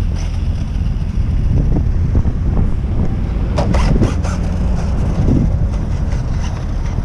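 Wind rumbling on the microphone over the faint high whine of a WLtoys short course RC truck running, with a brief burst of clattering about four seconds in.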